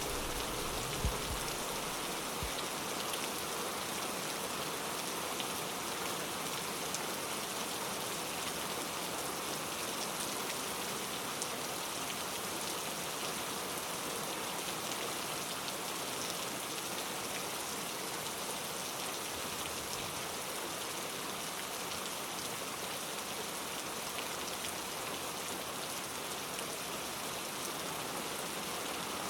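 Steady rain falling, an even hiss with occasional sharper drops. A low rumble fades out in the first couple of seconds.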